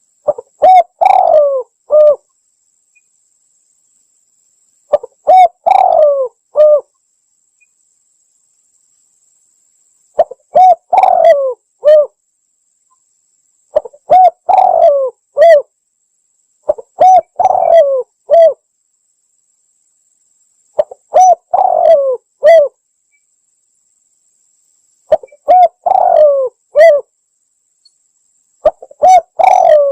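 Spotted dove (tekukur) cooing, a recorded lure call used to draw in wild doves. The same short phrase of several coos repeats about every three and a half seconds, eight times, with silence between.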